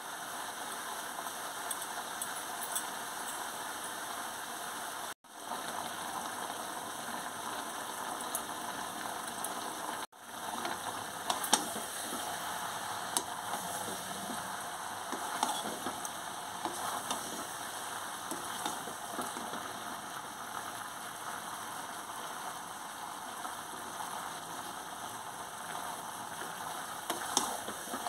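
Chicken, onions and capsicum frying in a metal kadai with a steady sizzle. From about 11 seconds in, a wooden spatula stirs the food, clicking and scraping against the pan. The sound cuts out briefly twice, about 5 and 10 seconds in.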